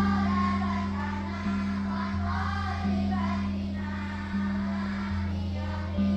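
A group of children singing together in chorus, over sustained low accompaniment notes that change every second or two.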